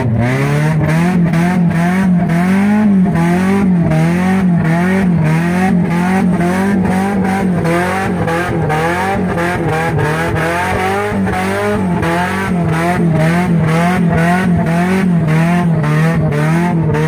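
A car engine heard from inside the cabin, driven hard across a rough dirt field. Its pitch rises and falls in a quick, steady rhythm.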